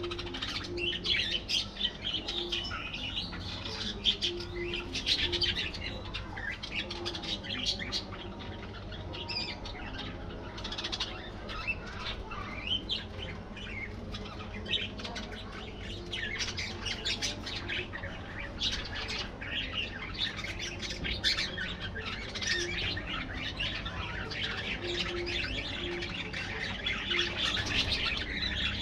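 Flock of budgerigars chattering with constant overlapping chirps and squawks, over a low steady hum.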